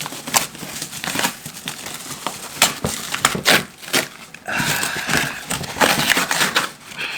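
Shipping box and its packaging being torn and crumpled open by hand: an irregular run of crackling, rustling and sharp tearing sounds.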